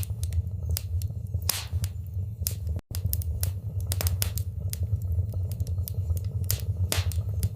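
Wood fire burning in a fireplace: frequent irregular crackles and pops over a steady low rumble of the flames. The sound cuts out for an instant about three seconds in.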